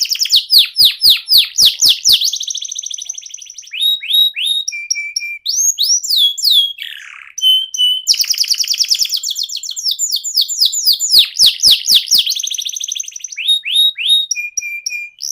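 Canary singing a long, varied song: runs of loud, repeated downward-sweeping notes at about five a second, fast rolling trills, and short strings of steady whistled notes, with a brief lull about seven seconds in.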